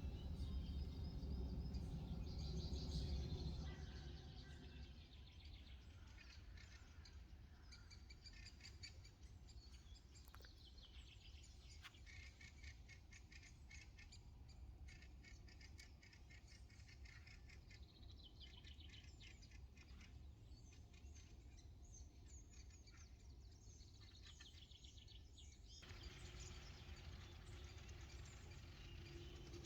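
Faint birdsong: small birds chirping and trilling in short, repeated high notes. A low rumble sits under the first few seconds.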